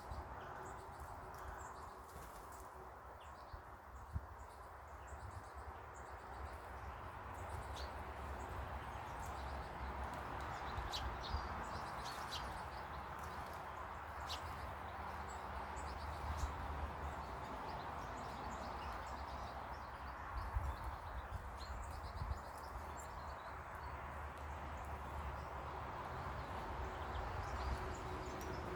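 Small birds chirping in short, scattered high notes, most of them in the middle stretch, over a steady background hiss and low rumble.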